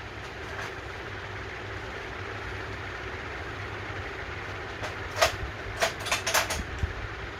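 Tools and parts being handled during work on a lawn mower carburetor: a quick cluster of sharp clicks and clinks over a steady low hum.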